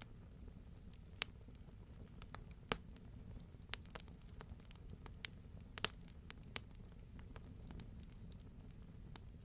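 Wood campfire crackling, with sharp pops every second or so, a quick double pop just before six seconds in, over a low, steady rumble of the burning.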